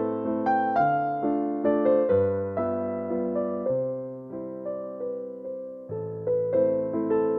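Background music: a gentle piano or electric piano piece, notes struck and left to fade, with chords and a melody.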